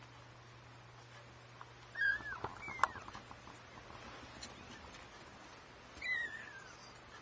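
Kittens about three weeks old mewing: a couple of short, high mews falling in pitch about two seconds in and another near the end, with a few light clicks of movement between them.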